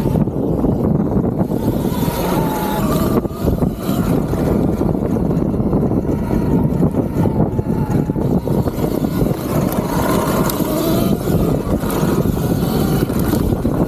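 Electric dirt bike being ridden along a rough trail: steady rush of wind and tyre and chassis noise, with a faint motor whine that rises and falls with the throttle.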